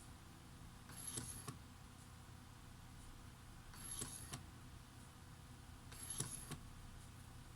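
Autofocus motor of a Nikon AF-S Nikkor 17-35mm f/2.8D lens driving focus three times, each run under a second, with a high thin squeal at the start and end of each run. The squeal is the abnormal AF-motor noise that marks the lens as faulty.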